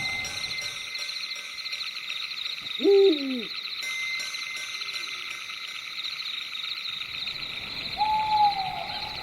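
Owl hooting, one call that bends up and down about three seconds in and a shorter falling call near the end. A steady, high, pulsing chirring of night insects runs underneath.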